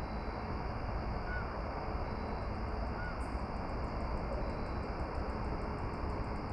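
Steady outdoor rushing noise, heaviest in the low end, with a faint, fast, high-pitched ticking of about five a second joining about two seconds in.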